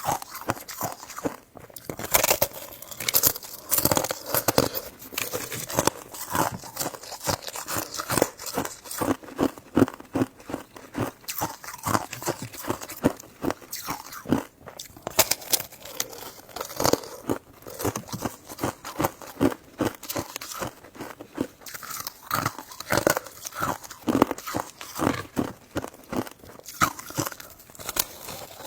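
Close-miked eating sounds: a person biting and chewing soft fruit jelly buns and filled mochi, a dense run of sharp mouth clicks, several a second.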